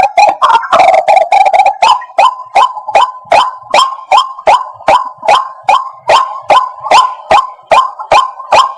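White-breasted waterhen calling: a couple of drawn-out croaking notes in the first second or so, then a steady, rhythmic run of short, sharp notes, about two and a half a second.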